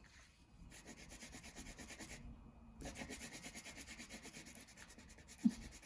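Wax crayon rubbed quickly back and forth on paper, a faint, steady scratching of colouring strokes with a short break about two seconds in.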